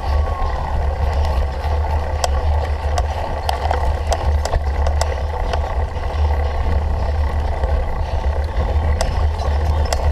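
Cyclocross bike being ridden in a race, heard from a camera on the rider or bike: heavy wind rumble on the microphone over a steady rolling noise, with scattered sharp clicks and rattles.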